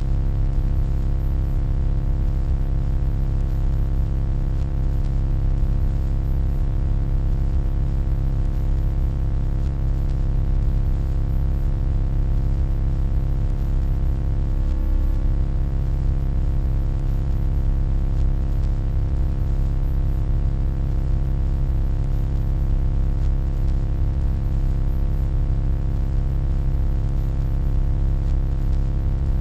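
Continuous electronic hum: a steady deep drone with many constant overtones and a faint hiss above, unchanging throughout.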